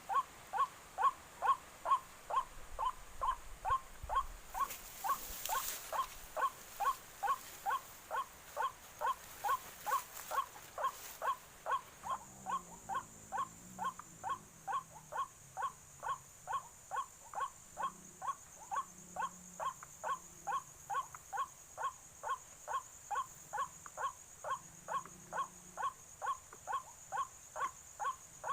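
Recorded white-breasted waterhen (ruak-ruak) call played from an MP3 speaker as a lure: one short, falling note repeated evenly about two and a half times a second.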